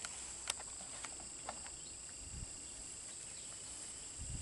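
Steady high-pitched insect chirring, crickets, with a few faint sharp clicks about every half second in the first second and a half. No gunshot.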